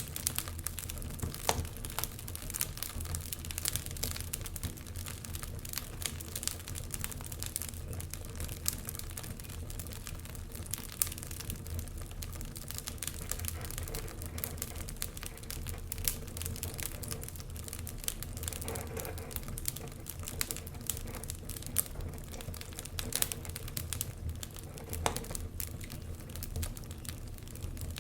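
Wood fire burning in a fireplace, crackling steadily with frequent sharp irregular pops over a low steady rumble.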